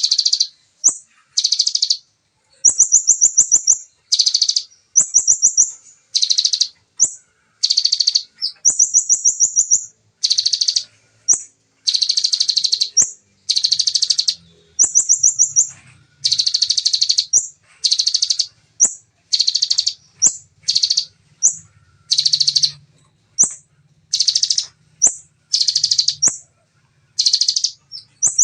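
Ciblek (bar-winged prinia) singing in rapid-fire bursts: short, fast, high trills, one after another with brief gaps between them.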